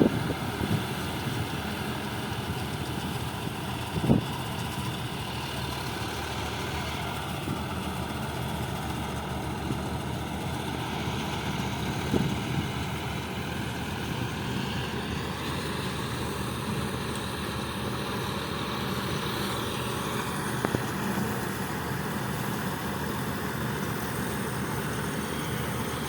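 John Deere 5405 tractor's diesel engine running steadily, with a couple of brief knocks.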